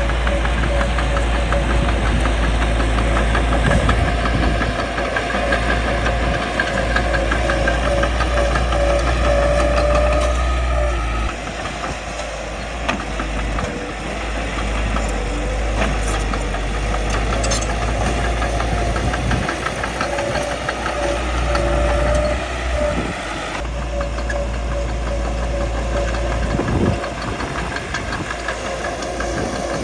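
Caterpillar D3C bulldozer's diesel engine running hard as the dozer works, with its note easing and rising again a few times as the load changes.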